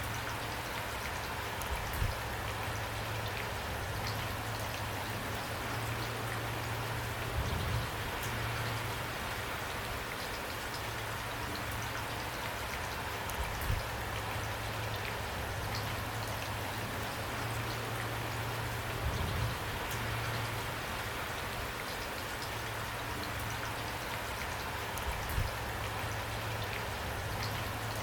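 Steady rain falling, with a short louder drop or drip knocking roughly every five to six seconds.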